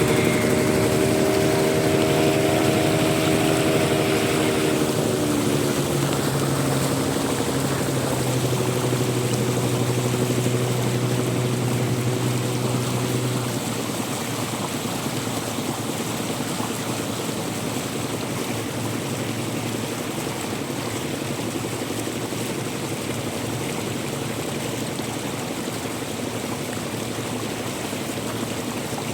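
Steady rushing of running water. Over the first half a droning engine hum sits on top, sagging a little in pitch at first and then holding steady, and it stops about halfway through.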